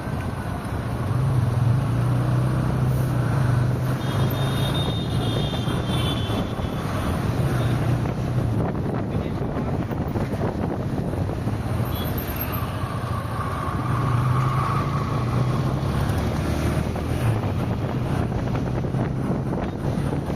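Car driving on a highway: steady engine hum and road noise with some wind, and a couple of faint high held tones from passing traffic.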